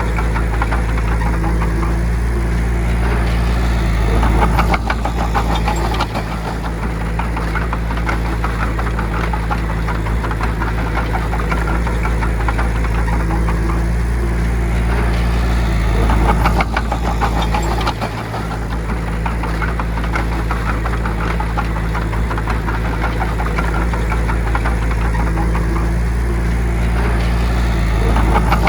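Bulldozer's diesel engine running steadily with a fast clatter over it, swelling louder about every twelve seconds.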